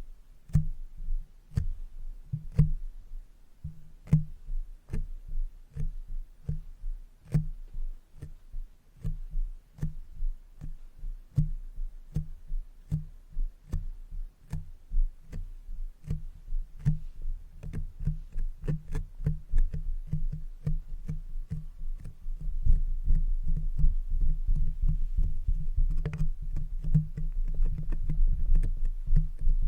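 A makeup brush is tapped against a microphone, making irregular soft low thumps, each with a sharp click. About two-thirds of the way through, the taps come faster and denser and get louder.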